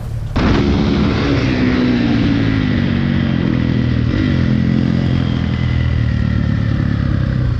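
Dirt bike engine running steadily, cutting in suddenly about half a second in, with a slight rise and fall in pitch over the next few seconds.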